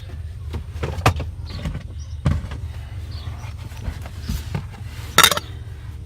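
Handling noise as hand tools are picked up and moved: scattered clicks and knocks over a steady low hum, with one loud short clatter about five seconds in.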